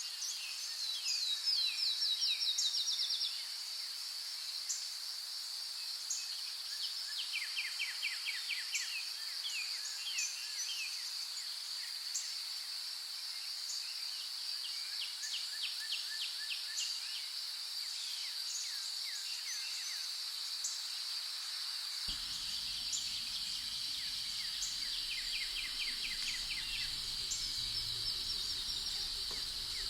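Forest insects droning in one steady high buzz, with a bird repeating short runs of quick falling notes every several seconds. A faint low noise joins in about two-thirds of the way through.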